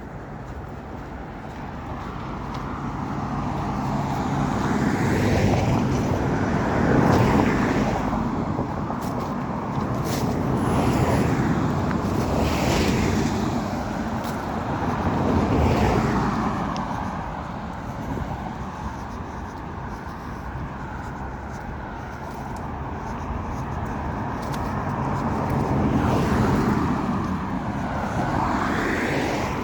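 Road traffic: several cars passing one after another, the tyre and engine noise rising as each approaches and falling away as it goes by.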